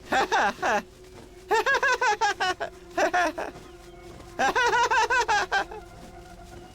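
Cartoon characters' high-pitched laughter in four short bursts of quick rising-and-falling syllables, over soft background music with held notes.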